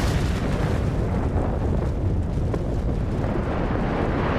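Deep, continuous rumbling of an erupting volcano, steady and low-pitched with faint crackles.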